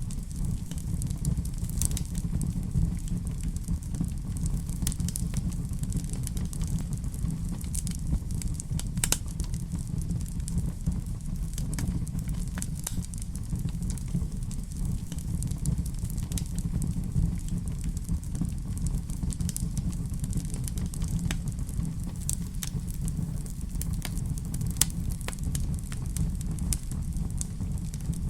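Fireplace fire crackling steadily, with frequent sharp pops and snaps over a low, even rumble.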